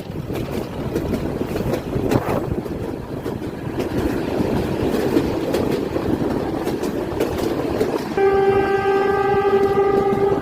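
A Bangladesh Railway train running with a steady rumble. About eight seconds in, its horn starts one long, steady blast that is still sounding at the end.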